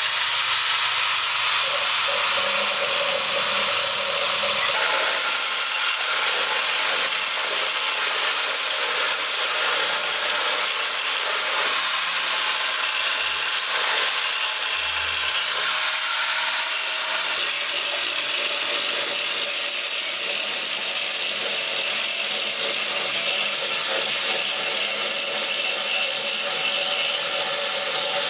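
A handheld power tool running continuously on machine parts, giving a steady, harsh abrasive noise with a faint steady whine under it.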